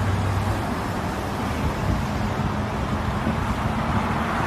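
A vehicle driving: a steady rush of road and wind noise with a low, even engine hum that fades near the end.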